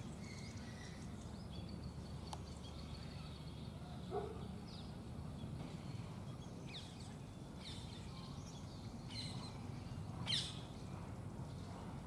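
Scattered short bird chirps from small birds, the loudest about ten seconds in, over a steady low background rumble.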